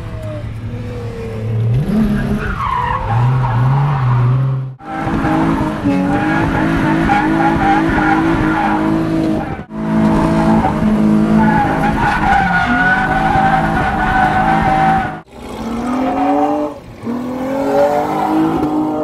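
Nissan 350Z's V6 revving hard and falling back as the car drifts, with tyres squealing and skidding. The sound breaks off abruptly three times, about every five seconds, between short runs.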